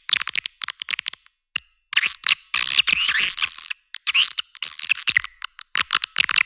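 Recorded swiftlet calls: rapid runs of high chirps and clicking twitters, with a short pause about a second in and then a dense burst of twittering. The recording has no low end. It is a swiftlet-house lure call, played to draw edible-nest swiftlets in to roost and nest.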